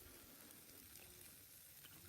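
Faint sizzling of meat cooking over a wood fire, with a few tiny crackles.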